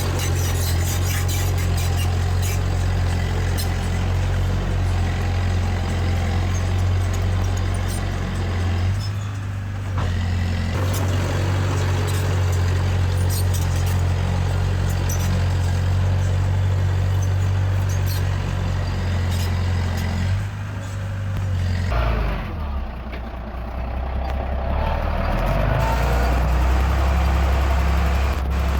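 Heavy diesel earthmoving machinery running under load, with scattered metallic clanks and clicks. The engine note dips briefly about nine seconds in, falls away around twenty-two seconds in, then builds back up near the end.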